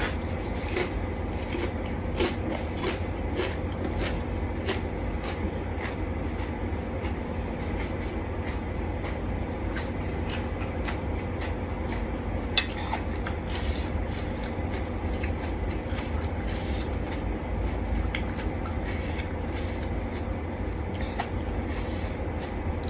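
Close-up eating sounds: chewing of seafood salad and rice noodles with many small, quick mouth clicks and light scrapes of utensils, over a steady low hum.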